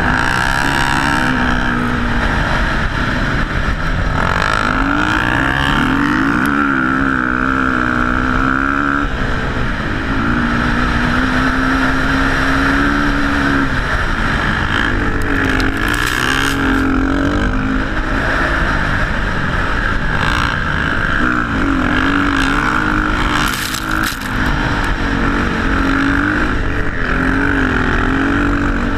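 Motocross bike engine being ridden hard, its revs rising and falling over and over with no break.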